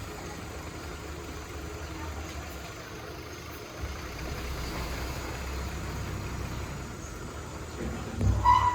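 Heavy diesel machinery engine idling with a steady low rumble. Near the end comes a short, loud pitched tone with a low thump.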